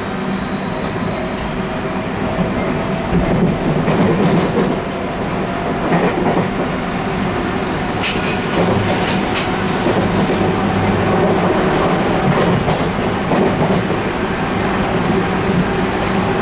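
Interior running noise of a JR West 223-1000 series electric train with Mitsubishi IGBT-VVVF traction control: a steady rumble with a faint motor tone that rises slowly. A few sharp wheel clicks over rail joints come about halfway through.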